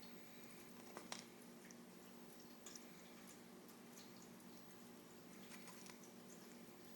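Faint, scattered small clicks and soft wet taps of an eclectus parrot's beak working at a whole raw egg, with a sharper pair of clicks about a second in, over a faint steady hum.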